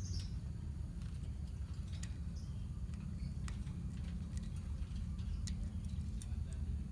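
Lovebirds in a colony giving scattered short, sharp chirps and clicks over a steady low hum.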